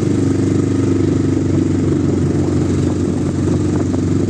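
A vehicle engine running steadily at an even, constant pitch.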